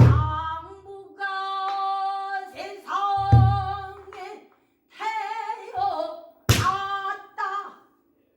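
Female pansori singer holding long, wavering melismatic vocal notes, accompanied by the buk barrel drum struck about every three seconds, with a sharp crack on the stroke about six and a half seconds in.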